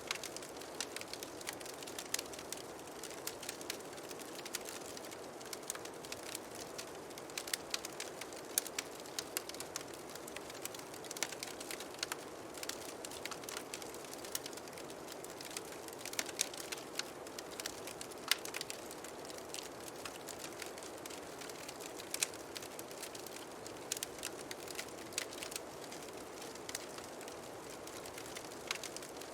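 Fireplace crackling: irregular sharp pops and snaps over a steady soft hiss.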